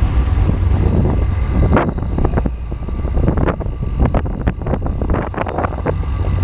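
Supercharged Chevrolet Camaro's engine running while driving, a steady low rumble, with wind buffeting the microphone in sharp crackles from about two seconds in.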